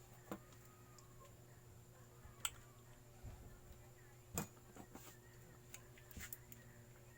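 Faint steady hum with a few scattered sharp clicks and knocks, four or five spread over several seconds.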